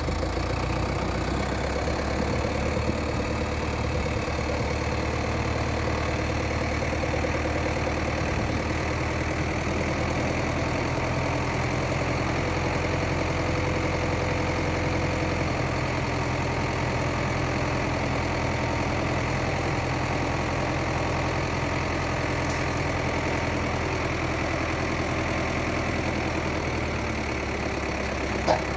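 Sonalika DI 750 tractor's diesel engine running steadily at idle, its hum shifting slightly about halfway through and again near the end. A single sharp click just before the end.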